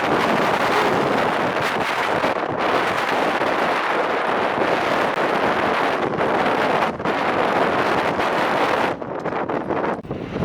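Strong wind buffeting the microphone as a loud, steady rush, easing briefly twice near the end.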